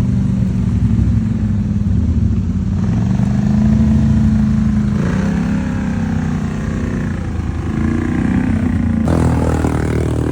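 A 700 ATV engine running hard at high revs while the quad works through mud. Its pitch wavers and shifts about halfway through and again near the end.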